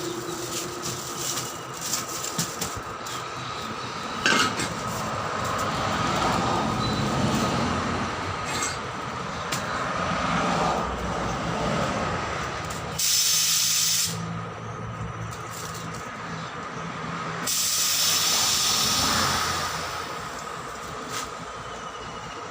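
Air hissing in two loud spells, one about a second long just past the middle and a longer one a few seconds later, over steady tyre-shop machine noise with a constant thin whine.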